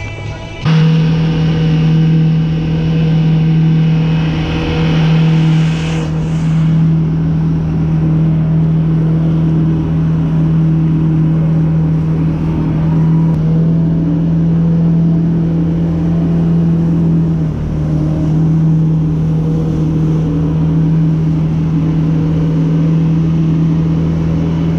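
Jet ski engine held at steady high revs, as when it drives a flyboard, with one constant pitch. It cuts in abruptly just under a second in and dips briefly about two-thirds through.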